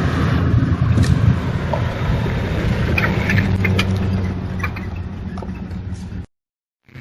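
A motor vehicle driving past on a logging road, picked up by a trail camera's microphone: a steady low engine hum with road noise and scattered small clicks. It cuts off suddenly near the end.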